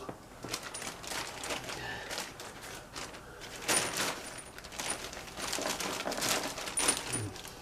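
Small metal fan hardware and packaging being handled: irregular clicks, rattles and rustling as screws and washers are sorted and fitted.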